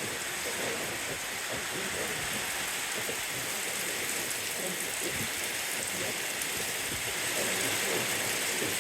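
Steady rain falling, a continuous even hiss that grows a little louder near the end.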